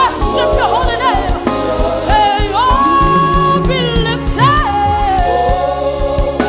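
Gospel worship song performed live: a lead voice sings long, held notes that bend in pitch, with backing voices and a band keeping a steady beat.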